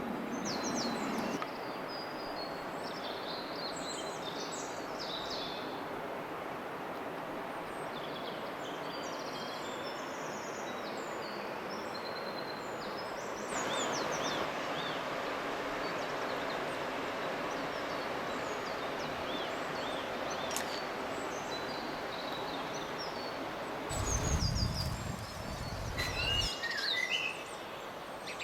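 Small birds chirping and singing over a steady outdoor background hiss. About 24 seconds in, a low rumble lasts a couple of seconds.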